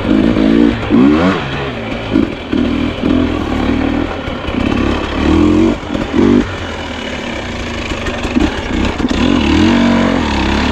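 Two-stroke enduro dirt bike engine revving in short bursts, its pitch rising and falling with each twist and release of the throttle as the bike is ridden slowly over technical ground.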